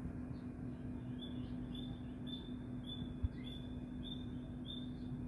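A bird repeating a short, high chirp over and over, just under two a second, over a steady low hum.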